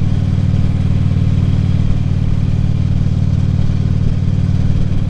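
Harley-Davidson Ultra Limited's V-twin engine and exhaust running steadily at cruising speed, with no revving or gear change.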